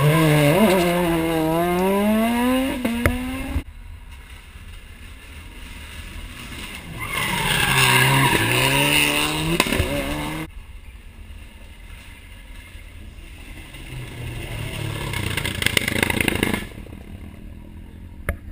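Rally cars taking a hairpin one after another, three in turn: each engine's revs drop under braking, then climb hard as the car accelerates out of the bend. Each pass cuts off suddenly.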